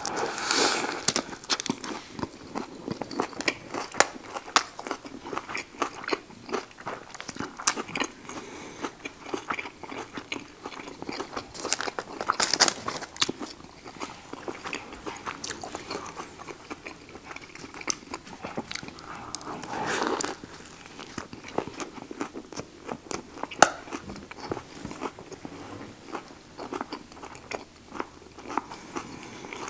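Close-up eating sounds of a Subway buffalo chicken sandwich on wheat bread: bites into crisp lettuce, cucumber, green peppers and other vegetables, then crunching and wet chewing with many small clicks and crackles. Louder bites come at the start, about twelve seconds in and around twenty seconds in.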